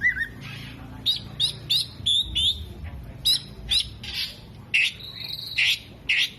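Oriental magpie-robin (kacer) singing: a quick, irregular string of short, sharp whistled chirps, with one longer held note about five seconds in. The song is made up of imitated calls of other birds.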